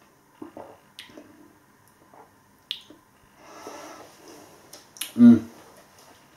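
Mouth sounds of someone tasting a pale ale: small lip smacks and clicks, a breathy sip, then a short, louder low sound a little after five seconds in.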